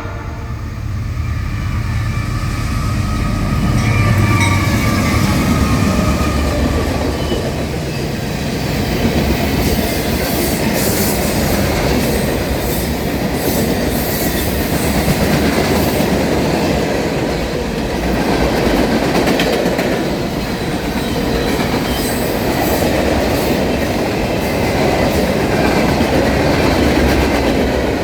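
Norfolk Southern freight train passing close by: the lead diesel locomotives rumble in the first few seconds, then the cars roll by with steady wheel-on-rail noise and scattered clicks over the rail joints.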